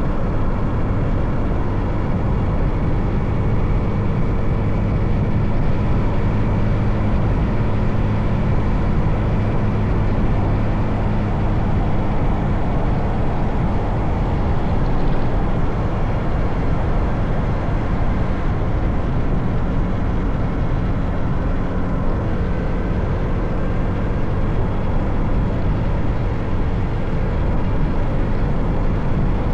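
Motorcycle engine running while riding, with a steady rush of road and wind noise. Its low hum weakens about halfway through and comes back a few seconds later.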